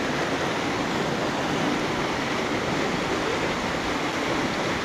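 Floodwater rushing steadily, an even, unbroken wash of noise.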